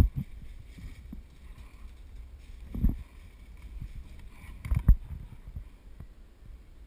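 Dull low thumps and knocks in three clusters, at the start, about three seconds in and near five seconds, from a player moving with the camera and its mount, over a steady low rumble of wind on the microphone.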